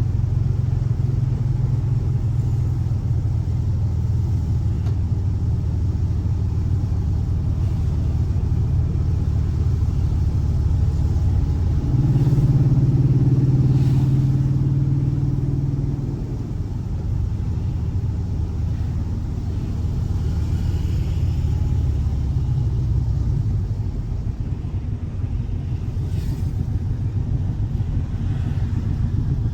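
Air-cooled 1584 cc flat-four boxer engine of a Volkswagen Fusca running steadily. It gets louder and fuller for a few seconds around the middle, then settles back.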